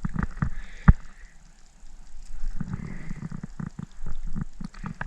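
Irregular knocks and thumps in a jon boat as a freshly caught bass and tackle are handled, with one sharp knock about a second in.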